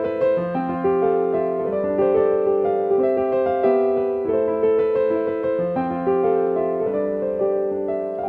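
Music: a solo piano instrumental passage, a steady run of melody notes over sustained chords, with no singing.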